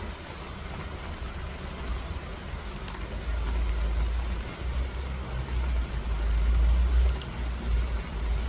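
Steady rain falling, an even hiss with a few separate drop ticks, under a low rumble that swells up about three seconds in and holds for most of the rest.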